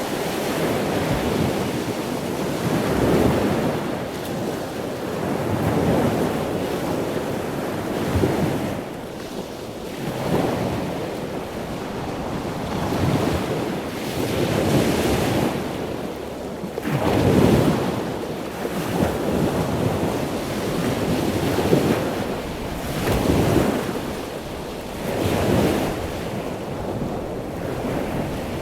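Ocean waves breaking on a shore, surging and receding every few seconds, with some wind on the microphone.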